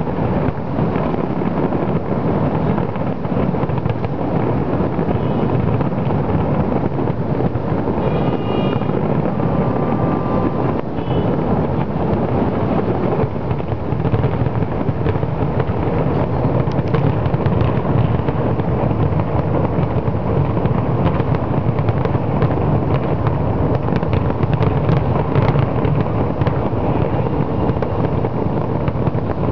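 Aerial fireworks display going off without pause: a dense run of booms and crackling pops.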